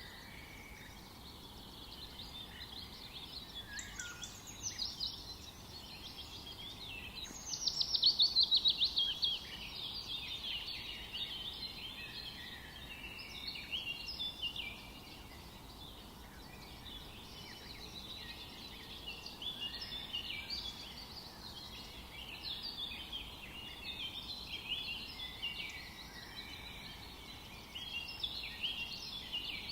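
Several songbirds singing and calling at once, overlapping chirps and phrases, with one loud, rapid trill of falling notes about eight seconds in.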